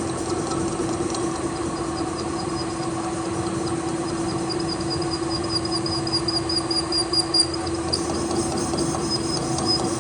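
A machine running steadily with a constant hum, joined partway through by a thin high whine that breaks off briefly and comes back.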